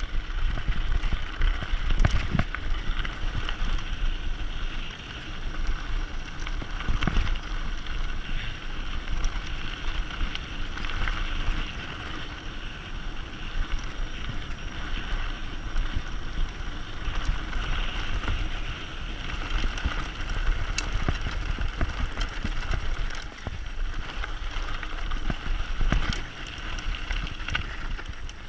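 Mountain bike descending a dirt forest trail: tyres rolling over dirt and stones with wind buffeting the microphone, and occasional sharp knocks and rattles from the bike over bumps.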